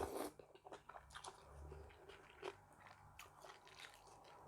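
Faint close-up chewing and crunching of a mouthful of spicy seafood salad, with a scatter of small crunchy clicks, a little louder in the first half second.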